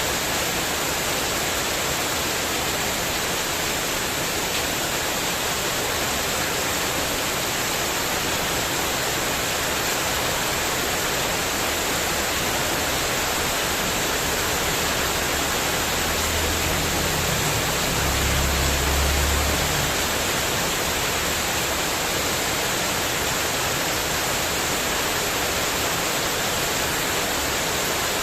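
Heavy rain pouring onto a spandek metal-sheet porch roof in a windy storm: a dense, steady hiss. A low rumble swells for a few seconds about two-thirds of the way through.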